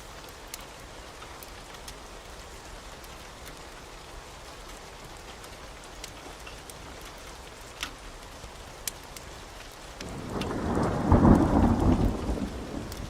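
Steady rain with scattered sharp ticks, then a rumble of thunder swells about ten seconds in, peaks and fades away near the end.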